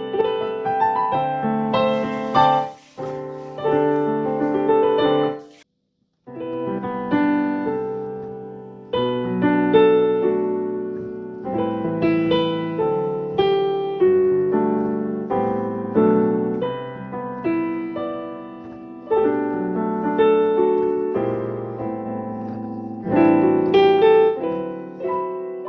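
Background piano music: sustained chords struck every second or two, each fading away, with a brief silence about six seconds in as the track restarts.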